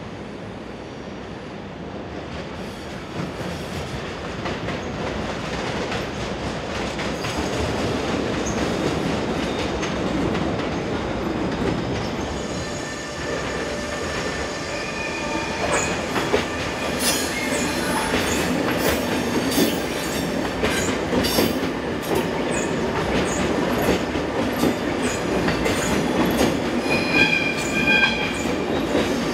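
Railway wheels rolling over track: a steady rumble that builds over the first seconds. From about halfway on, SBB passenger coaches pass close by, with repeated clacking over rail joints and points and high wheel squeal near the end.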